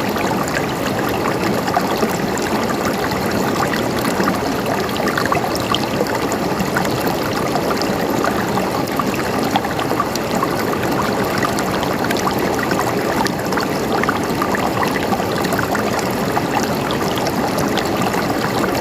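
River water flowing steadily over rocks, a constant rushing with many small splashes and gurgles.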